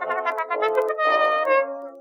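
Brass music: trumpets and other brass playing a tune in held and moving notes, with sharp percussion hits among them; it fades off near the end.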